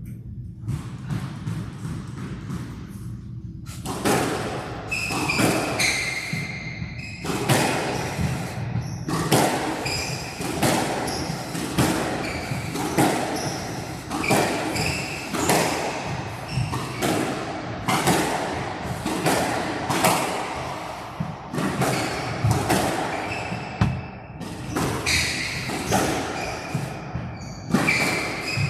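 A squash rally: sharp cracks of the ball off racquets and walls, coming every half second to a second, with short high squeaks of shoes on the court floor. The rally begins about four seconds in.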